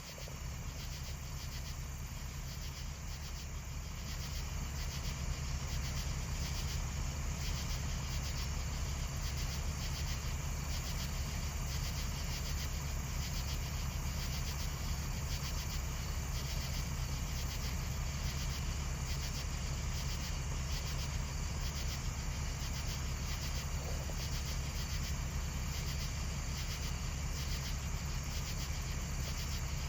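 Insects chirring steadily over a steady low rumble.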